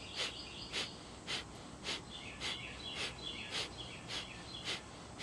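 A person doing yogic pumping breathwork, forcing out short sharp exhales by pumping the belly in toward the spine. The exhales come at a steady pace of nearly two a second.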